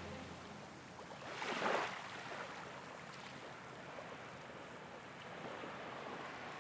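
Quiet water ambience by the shore: one soft wash of water swells and fades about a second and a half in, over faint steady water noise.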